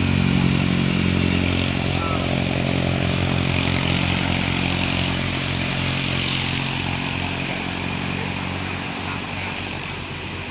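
A vehicle engine drones steadily over road noise and fades over the first few seconds, as the vehicle moves off.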